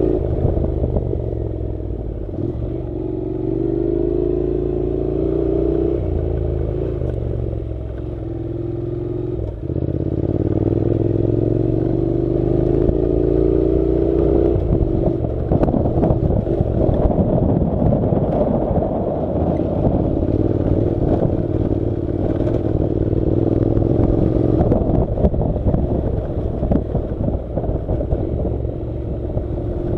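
Honda NC700's parallel-twin engine running under load, rising in pitch and dropping back at each gear change. From about halfway a rough clattering joins in over a lower, steadier engine note.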